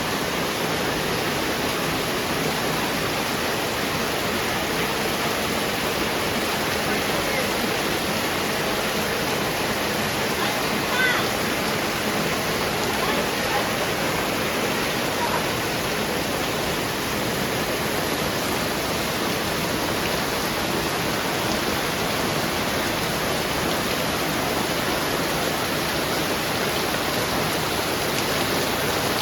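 Heavy rain falling steadily, a dense even hiss, with one brief faint higher-pitched sound about eleven seconds in.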